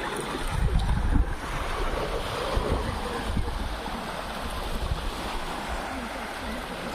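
Sea surf washing in steadily, with wind buffeting the microphone in low rumbling gusts, strongest about a second in.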